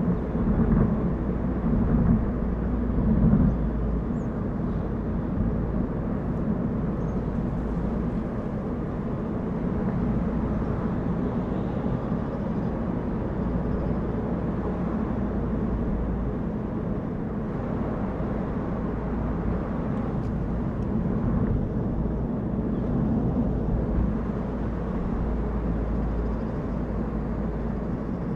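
A car driving: steady engine and tyre noise on the road, a little louder for a few moments in the first seconds.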